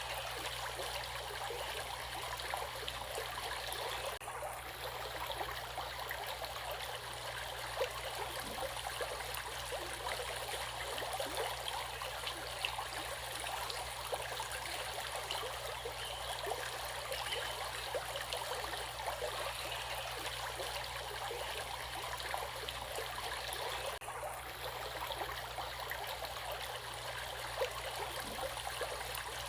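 Stream water flowing steadily, a constant rushing and babbling without a break.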